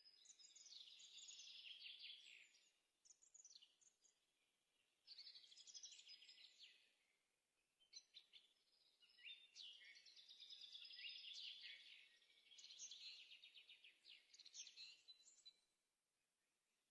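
Faint birdsong: a small bird singing in quick trilled phrases, about six of them with short pauses between.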